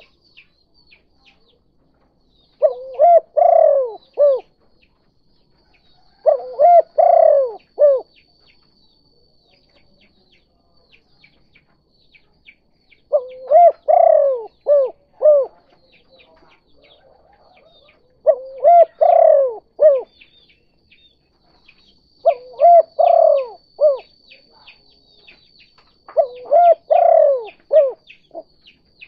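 Spotted dove (tekukur) giving its 'kuk 2' cooing call, a short phrase of several coos repeated six times a few seconds apart, with faint high chirping behind.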